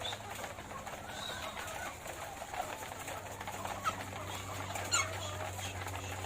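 A flock of laying hens clucking and murmuring, many short overlapping calls with the odd higher squawk, over a steady low hum.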